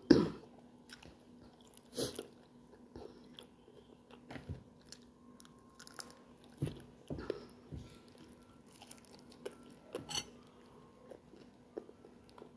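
A person chewing and biting food close to the microphone: wet mouth clicks and small crunches come at irregular intervals, with louder ones at the start, about two seconds in and about ten seconds in.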